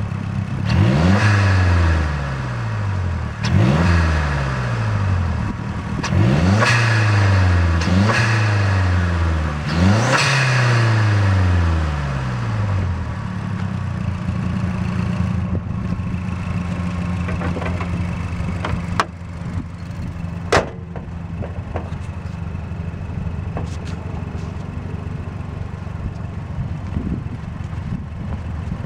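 2007 Mazdaspeed 3's turbocharged four-cylinder, fitted with a Cobb short ram intake, revved in five quick blips, each rising sharply and falling back, then settling to a steady idle. About two-thirds of the way through comes a single sharp thud, the hood being shut.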